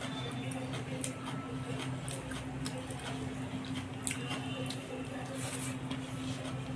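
Wet chewing and lip-smacking of someone eating rice and egg curry, with many short squishy clicks, over a steady low hum.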